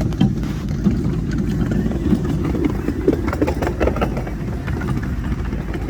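Steady low rumble of a ride on a miniature railway train moving along the track, with a run of light clicks and rattles about three seconds in.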